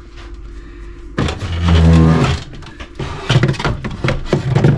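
A person's long, low, drawn-out groan about a second in, followed by short bursts of voice. It is a reaction of disgust on finding insect eggs and larvae in the freezer.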